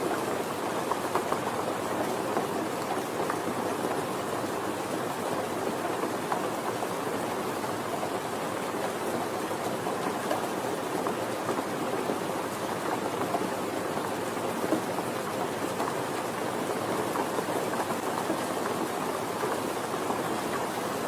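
Soft, steady rain, a dense even patter of drops with fine ticks throughout.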